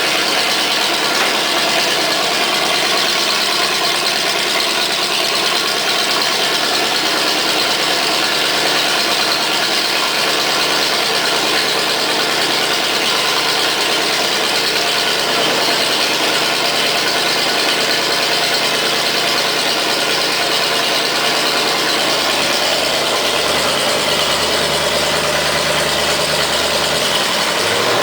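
Oldsmobile 350 (5.7 L) V8 engine idling steadily through Flowmaster mufflers.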